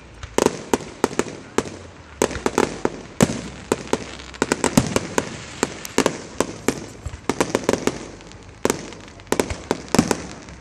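Fireworks display: aerial shells bursting in a rapid, irregular string of bangs, several a second.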